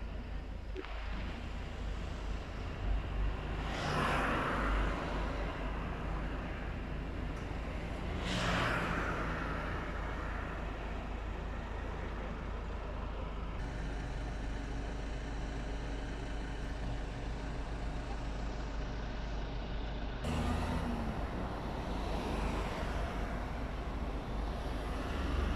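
Road traffic: vehicles passing one at a time, about four and eight seconds in and again after twenty seconds, over a steady low rumble.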